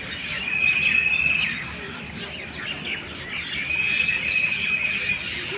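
Birds chirping, with two long, steady, high-pitched notes held about a second each, the first about half a second in and the second in the latter part.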